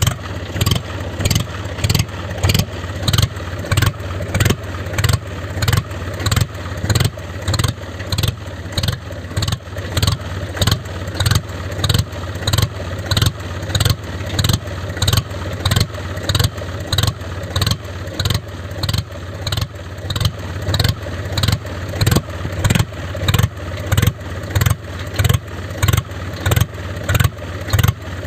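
Tractor engine sound chugging steadily: a constant low hum with an even thump about twice a second that does not change.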